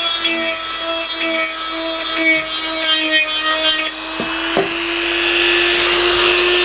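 Dremel rotary tool running at a steady high pitch while its bit grinds and scours metal, cleaning the surface inside an EGR cooler ready for brazing. About four seconds in, the grinding hiss drops away and the tool spins on freely.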